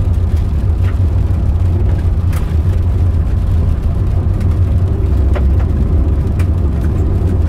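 Steady low rumble of a car driving, with road and engine noise and a few faint ticks.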